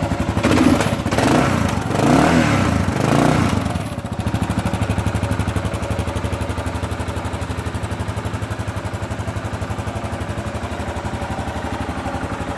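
Kawasaki KLR 650's 651cc single-cylinder engine running. It is revved three times from about half a second to four seconds in, then settles back to a steady idle.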